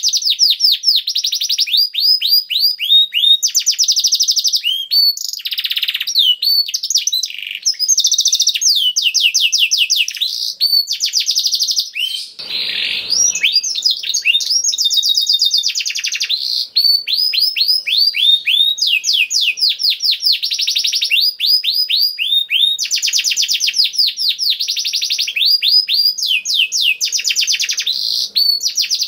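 Domestic canary singing continuously: a long, high-pitched song of rapid trills and rolls made of quickly repeated falling notes, with a brief harsher, buzzy phrase about halfway through.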